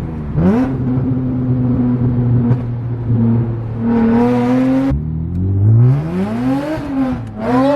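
Car engine accelerating under load. Its pitch climbs and holds, drops sharply about five seconds in as at a gear change, then climbs again, eases off and rises once more near the end.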